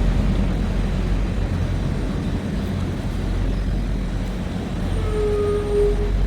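Truck engine and road noise, a steady low rumble. A short steady tone sounds about five seconds in and lasts roughly a second.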